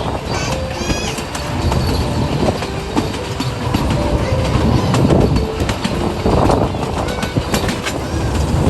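Puffing Billy narrow-gauge steam train running, its wheels clicking and clattering over the rail joints in a steady stream of sharp knocks.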